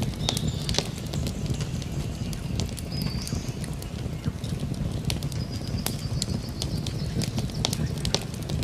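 Campfire crackling, with frequent irregular sharp pops and snaps over a steady low rush of burning wood. Faint high bird calls sound now and then in the background.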